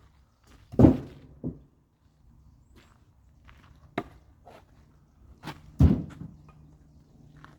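Heavy thuds of firewood being handled, the two loudest about a second in and near six seconds, with lighter knocks and a sharp click between, over a faint steady low hum.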